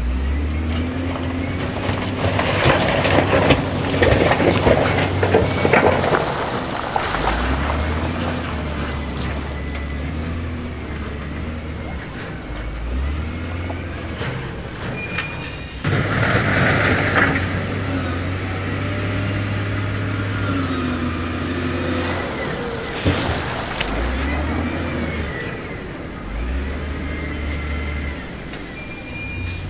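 Heavy diesel earthmoving machinery working on loose stone, the engines' low drone stepping up and down in pitch as they take and ease off load. Bursts of grinding noise from the stone come in the first few seconds, and a sharper, higher noise comes about sixteen seconds in.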